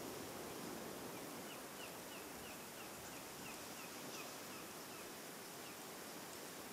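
A bird calling: a run of about a dozen short, falling chirps at roughly three a second, over a steady outdoor hiss.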